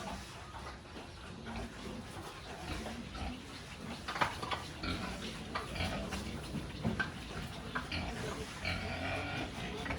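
Pigs grunting, mixed with scattered sharp clicks and knocks; the loudest click comes about four seconds in.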